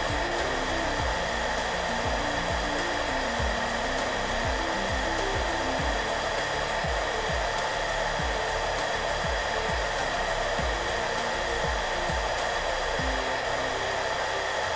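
Hair dryer running steadily: an even rushing blow with a faint motor whine. Soft background music plays underneath, with shifting low notes and a gentle low beat.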